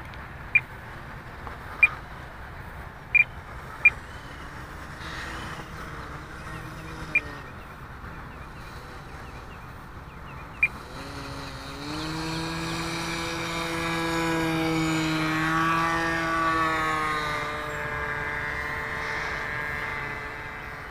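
The OS .46 AX two-stroke glow engine of an RC model airplane drones faintly, then grows much louder about halfway through. Its pitch drops as it passes, and it carries on steadily at a lower level. Several short sharp clicks come in the first half.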